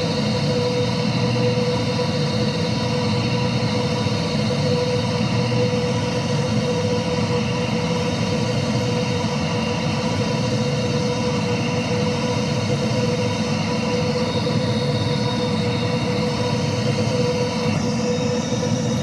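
Airbus A330 jet engines running steadily, a constant rumble with a steady whine, with no rise or change.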